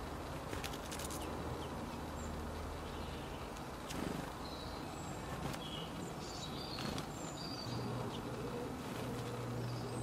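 A few short, high bird chirps, mostly in the second half, over a steady low hum and hiss. The hum grows louder near the end.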